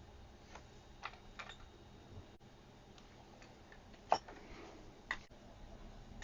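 A few light clicks and taps from small tools being handled on a workbench, the sharpest about four seconds in.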